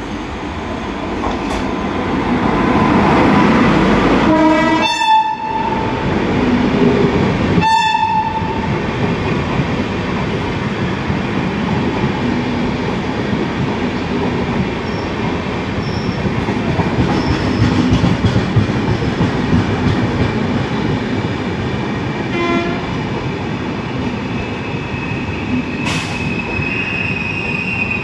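An Indian Railways express hauled by an electric locomotive runs through a station at speed. The sound swells as it approaches, and the locomotive's horn sounds twice, a few seconds apart, early in the pass. The coaches then rush by with a steady rumble and clatter of wheels on rail, and a thin high wheel squeal near the end.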